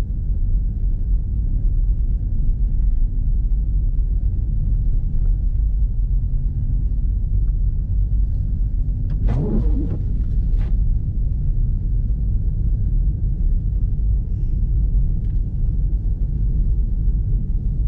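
Steady low rumble of road and engine noise inside an SUV's cabin while driving on a snow-covered road. About nine seconds in comes a brief sound that wavers in pitch, then a sharp click a second later.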